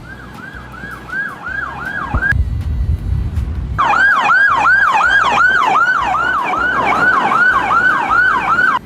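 Police car siren in a fast yelp, each wail falling in pitch, about three a second. It breaks off for about a second and a half early on, then comes back louder, over a low rumble.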